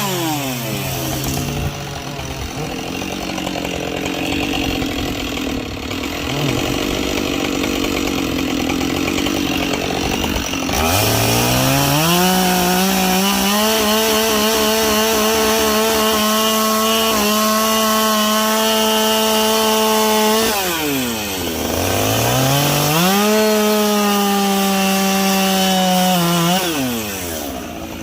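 Two-stroke chainsaw bucking logs at full throttle. The engine note drops away just after the start and stays lower and rougher for about ten seconds. It then climbs to a high, steady whine, falls back around twenty seconds in, climbs again, and drops off near the end.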